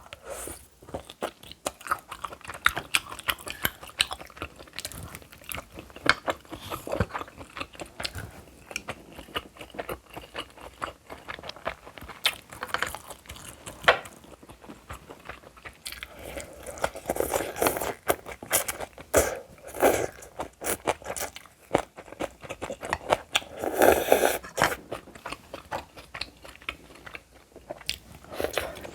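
A person chewing and biting food close to the microphone: crunchy bites and wet chewing with many sharp mouth clicks, louder and denser in a couple of stretches past the middle.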